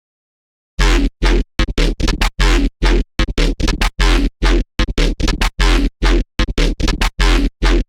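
Serum software synthesizer patch built on an image-derived wavetable, played as a loud, stuttering rhythm of short, gritty, chopped notes with a deep bass underneath. It starts abruptly out of silence about a second in.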